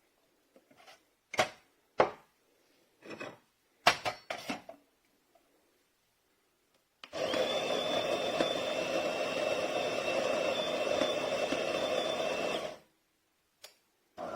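A few clicks and knocks, then the De'Longhi Magnifica Evo's built-in burr grinder grinding coffee beans. It runs steadily with a whine for about five and a half seconds, then stops.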